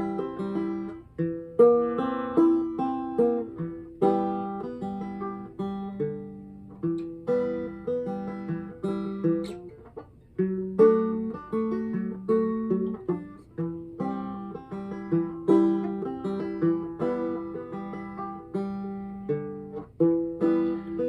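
Instrumental music on a plucked acoustic string instrument, banjo or guitar: a steady run of picked notes with no singing.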